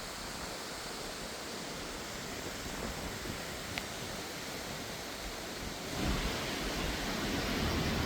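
Steady rushing noise, with a deeper rumble joining and the level rising about six seconds in.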